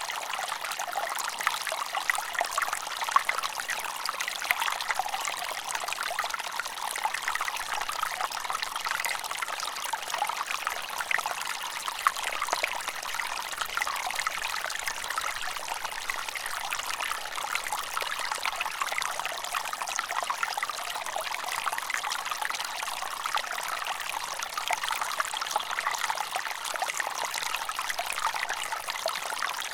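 Running water trickling and splashing steadily, like a small stream or brook flowing over stones, with many small bubbling splashes.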